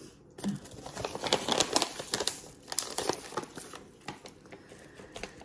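Plastic packaging crinkling as it is handled, a dense run of crackles for about three seconds, then softer rustling.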